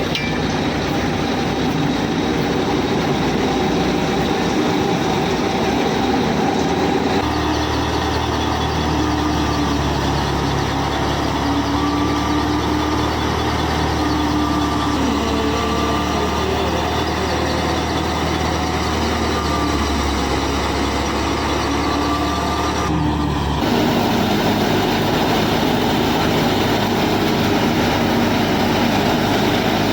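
Steady mechanical motor noise from a model tractor and chaff cutter machine running. A deep low hum joins it about seven seconds in and cuts off suddenly about twenty-three seconds in.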